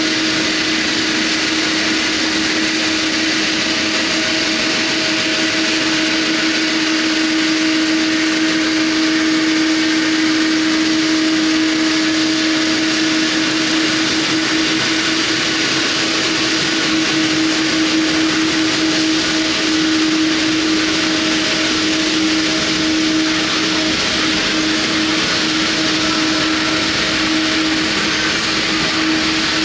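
Jet airliner engines running steadily at idle close by: an even rushing noise with a constant low hum that does not change.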